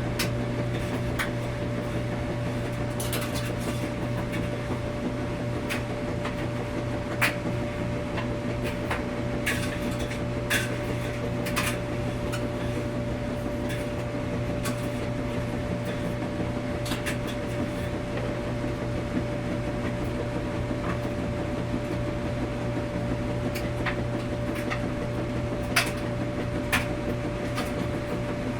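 Washing machine running with a steady hum, with irregular light clicks and knocks scattered over it.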